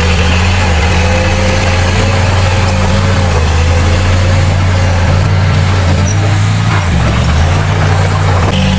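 Heavy diesel construction machinery running steadily, a low engine drone with a steady whine above it; the engine note shifts briefly about seven seconds in.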